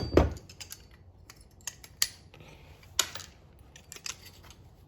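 Thin sheet aluminum being peeled back from a microwave part with hand tools: a scattering of short, sharp metallic clicks and clinks, the strongest just after the start and about three seconds in.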